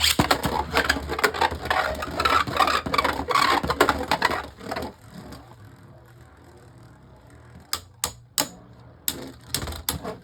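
Two Beyblade Burst spinning tops, Harmony Pegasus and Judgment Joker, battling in a plastic stadium. Dense rapid rattling collisions for about the first five seconds, then quieter spinning with a few sharp clicks near the end.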